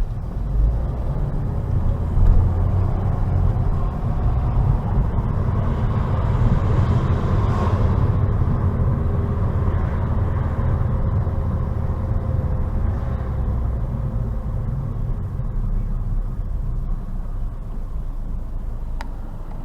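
Car driving along, heard from inside: a steady low rumble of engine and tyres, with a swell of louder road noise peaking about seven or eight seconds in. Two short clicks come near the end.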